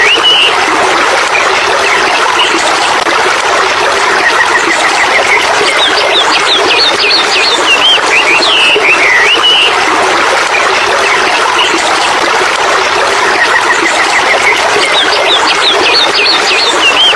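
Birds singing, with quick gliding whistled phrases and a rising run of short chirps, over a steady rush that sounds like running water. The same phrases come back about every nine seconds.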